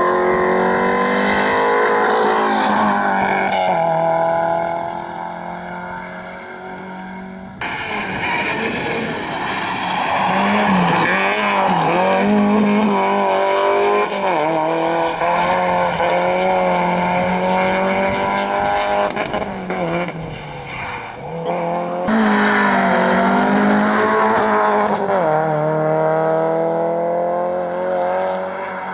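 Rally cars driven hard on a stage: engines revving up and falling back repeatedly through the gears, with tyre squeal. The sound changes abruptly twice, about seven and twenty-two seconds in, as one car gives way to another.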